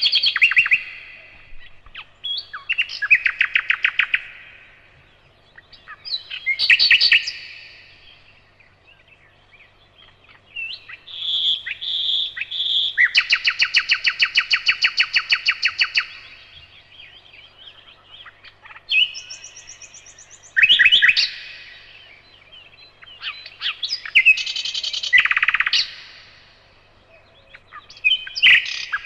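Nightingale singing: phrases of one to three seconds separated by short pauses, with fast repeated notes. Near the middle comes a run of three clear whistles followed by a long rapid series of repeated notes.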